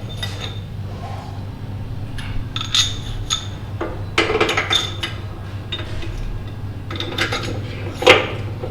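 Metal tools and parts being handled in a workshop, with scattered clinks and knocks, some ringing briefly, and one louder knock near the end, over a steady low hum.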